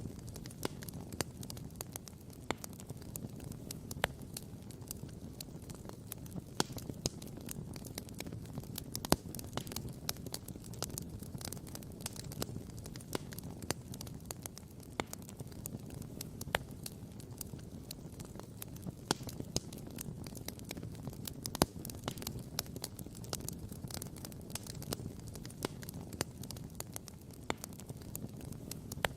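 Wood campfire crackling, with irregular sharp pops, some loud, over a steady low rumble.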